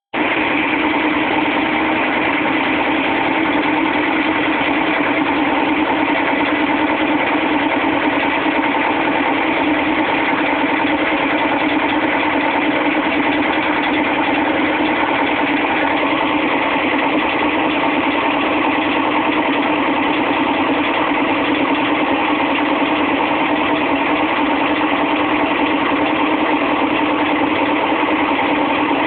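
GE WBVH6240FWW front-load washer spinning with a loud, steady racket: two of the three arms of its corroded tub spider have broken off and are beating the back of the metal tub.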